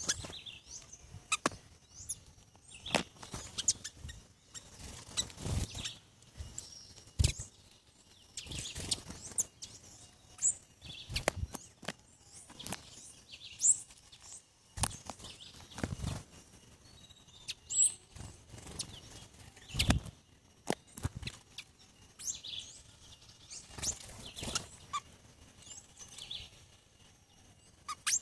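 Tanagers, green-headed tanagers among them, landing and taking off close by: repeated wing flutters and sharp thumps. Short high chirps and calls come in between.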